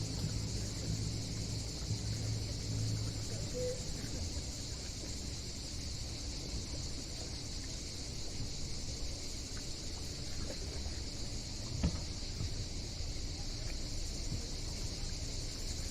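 A steady, high insect chorus, with a low engine hum underneath that is stronger in the first few seconds; a single knock near the end.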